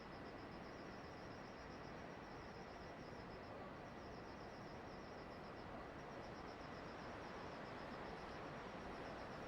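Insects, likely crickets, chirping in a rapid high pulsing trill of about nine or ten pulses a second, in runs with brief breaks, over a steady low hiss.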